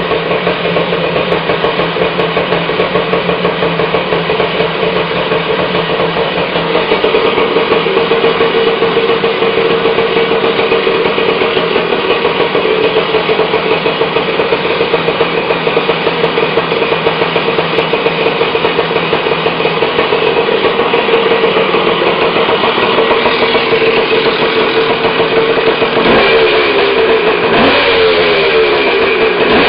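Yamaha DT175 MX two-stroke single-cylinder dirt bike engine idling steadily, then revved up and down with the throttle near the end.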